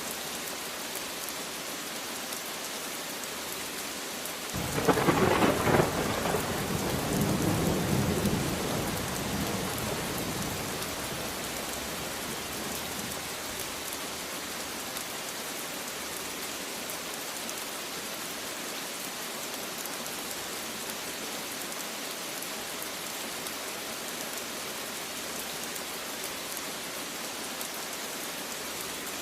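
Steady rain hissing throughout. About four and a half seconds in, a thunderclap breaks in suddenly, swells again a couple of seconds later, and rumbles away over several seconds.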